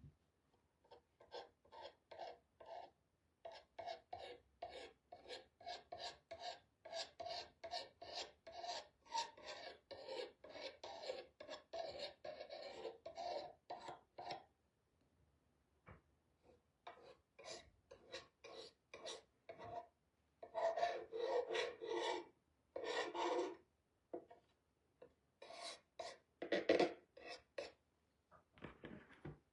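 Palette knife scraping across a stencil in quick repeated strokes, spreading colour, with a short pause about halfway through.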